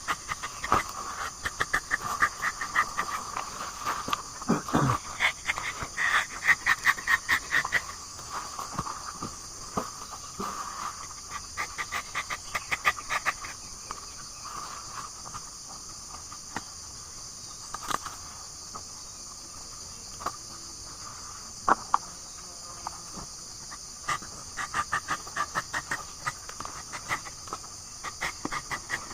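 Steady high insect drone, with repeated runs of rapid scratchy clicks coming and going every few seconds.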